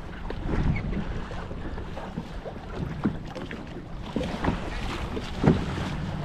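Wind buffeting the microphone and water moving around a kayak on the open sea, with a few brief knocks, the loudest about five and a half seconds in.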